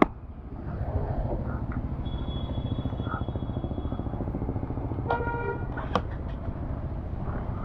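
A small two-wheeler engine running steadily at idle, with a rapid low pulsing. A vehicle horn sounds once, just under a second long, about five seconds in.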